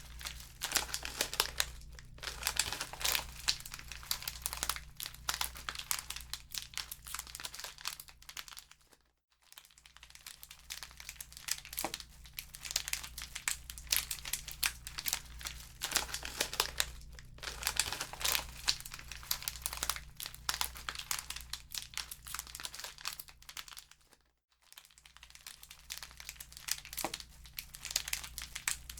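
Wood fire crackling in a fireplace: a dense run of small pops and snaps over a steady low hum. The sound dips briefly to almost nothing twice, about nine seconds in and again near twenty-four seconds.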